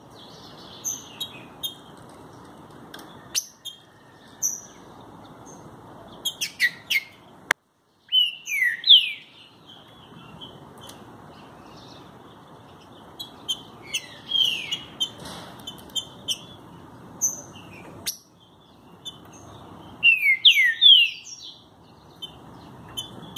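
Green-winged saltator (trinca-ferro) singing: loud phrases of falling whistled notes about 8, 14 and 20 seconds in, with short high chirps scattered between them over a low steady hiss.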